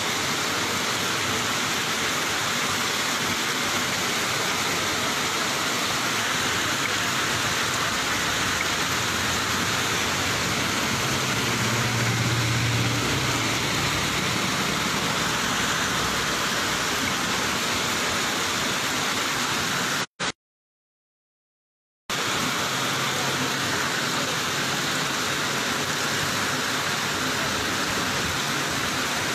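Heavy rain pouring steadily onto a flooded street, a dense even hiss. A vehicle engine hums briefly about twelve seconds in. The sound cuts out for about two seconds two-thirds of the way through.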